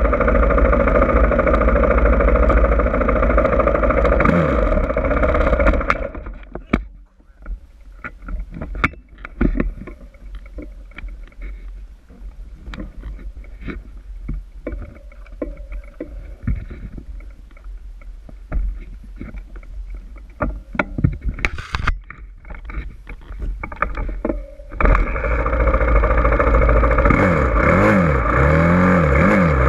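Dirt bike engine running hard with wind rumble on the microphone. About six seconds in it drops away to a much quieter stretch of scattered knocks and clatter. Near the end it runs loud again, the revs rising and falling.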